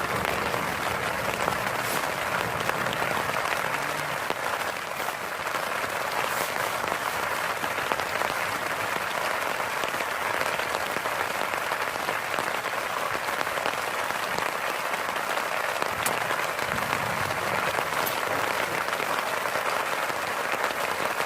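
Heavy rain falling steadily, an even hiss that never lets up.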